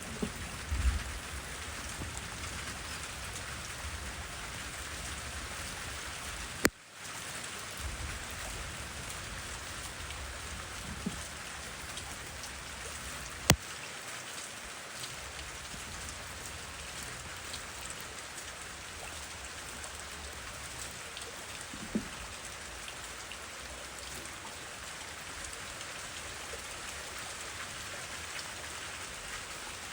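Steady rain falling, an even hiss throughout, with a few sharp clicks standing out, the loudest about halfway through. Just before seven seconds in, a click is followed by a momentary drop-out.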